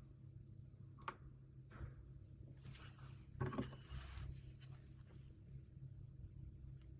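Quiet pen-and-paper desk sounds: a light click about a second in, then a brief rustling scratch around the middle, over a steady low room hum.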